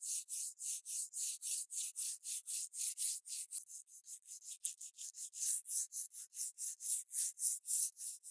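Hand abrading of a rusted metal part: quick, even back-and-forth rubbing strokes, about three to four a second, with a hissy scraping sound and no low thump.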